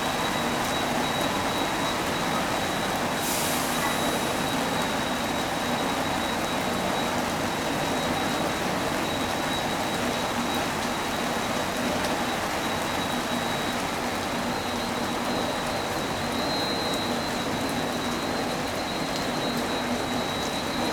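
Steady rushing, rain-like noise of fire-hose water spraying and falling during firefighting, with a thin steady high whine throughout. A brief hiss comes about three seconds in.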